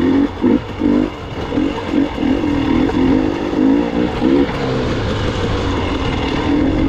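Gas Gas EX 300 two-stroke enduro motorcycle engine under the rider, the throttle blipped on and off in quick pulses over rough single track, then held more steadily for the last few seconds.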